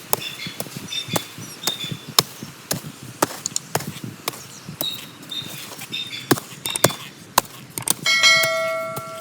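A metal garden tool chopping into soil, with sharp strikes at an uneven pace about two a second. About eight seconds in, one strike hits something hard and the metal blade rings like a bell, fading slowly.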